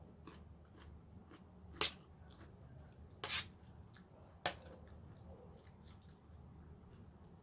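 Close-up chewing of a raw vegetable salad: soft wet mouth clicks throughout, with three louder crunches, the middle one longer.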